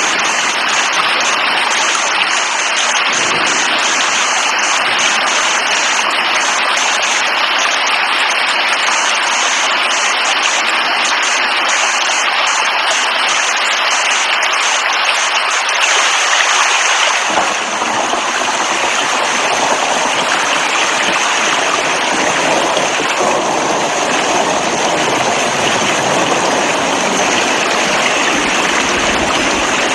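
Steady heavy rain, a dense even hiss. A little past halfway the sound changes to a fuller, deeper rush.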